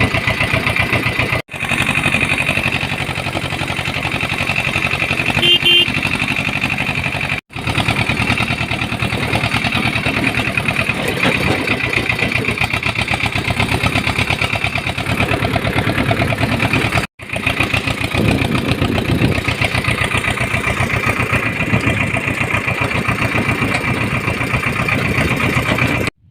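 Uralets mini tractor engine running steadily while hauling a trailer load of manure. The sound drops out abruptly three times for a moment and resumes.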